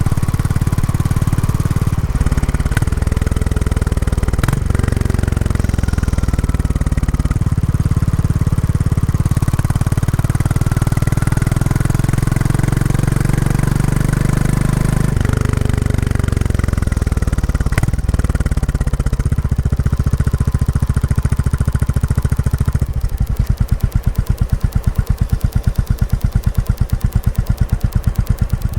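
Royal Enfield Classic 350 single-cylinder engine running through its stock exhaust while riding, its pitch changing with several gear changes and falling as the bike slows about two-thirds of the way in. Near the end it settles into an even, pulsing idle thump.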